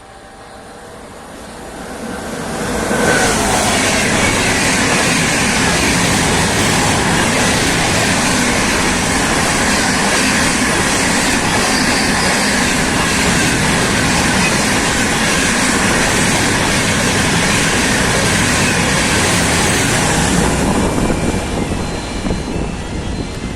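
Express train hauled by a WAP7 electric locomotive passing through at speed without stopping: the noise swells over the first three seconds as the locomotive arrives, then the coaches rush past in a loud, steady rumble of wheels on rails, falling away about three seconds before the end.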